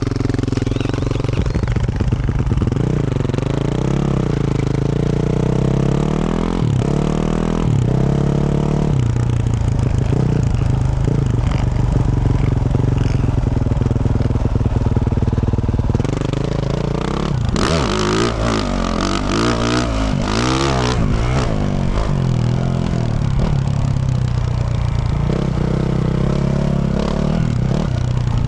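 2024 Yamaha YZ450F's single-cylinder four-stroke engine through a Yoshimura RS-12 exhaust, under way with the revs rising and falling. A little past the middle come a few seconds of rapid knocks and rattles.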